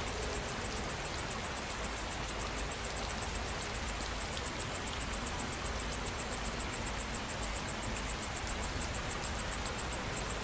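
Steady rain falling, with an insect chirping in fast, even pulses, about five a second, high above the rain.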